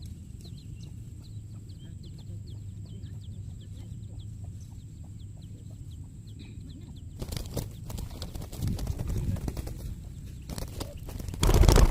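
Wild spotted dove caught in a racik snare, its wings flapping in irregular bouts from about seven seconds in, with a loud bump near the end. Before that, faint short ticks about three a second over a low rumble.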